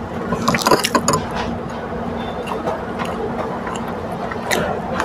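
Close-up chewing of a mouthful of crisp lettuce: a quick run of wet crunches and clicks in the first second, quieter chewing after, then a couple of sharper crunches near the end. A steady low hum runs underneath.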